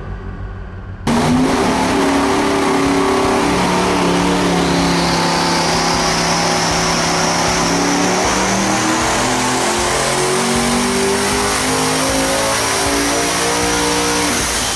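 Devel Sixteen's turbocharged V16 engine on an engine dynamometer, cutting in loud about a second in and making a full-throttle pull. The engine note climbs steadily in pitch for about thirteen seconds toward its 6,900 RPM peak, with a rising whine above it, then drops off near the end.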